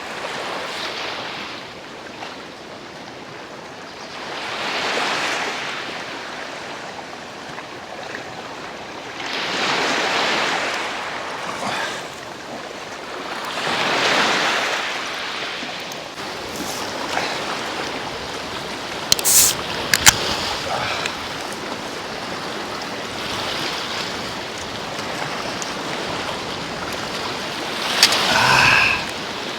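Sea waves washing onto the shore, surging and falling back about every four to five seconds. A few sharp clicks come about two-thirds of the way through, and a short pitched sound comes near the end.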